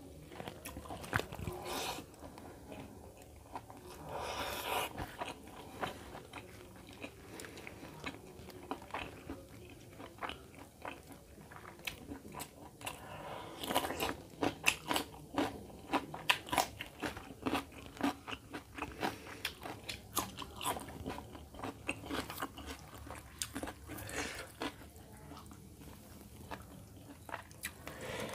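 Close-miked eating: a person chewing rice and chicken curry with wet mouth sounds, and a run of crisp crunches about halfway through as he bites into a slice of raw cucumber.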